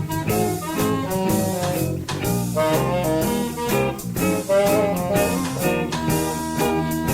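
A jazz band playing a swing number, with horns carrying the melody over a steady drum-kit beat.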